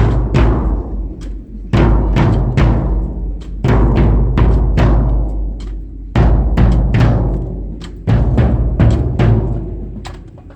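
Marching band drumline playing a cadence: heavy drum hits roughly every two seconds, each ringing out, with quicker sharp strikes in between.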